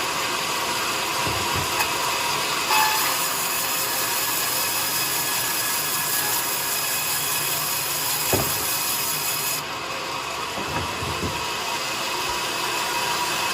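Sawmill saw running and cutting coconut wood: a steady whine over a dense rasp. The top of the sound brightens about 3 s in and drops away about 10 s in, with a sharp knock a little past 8 s.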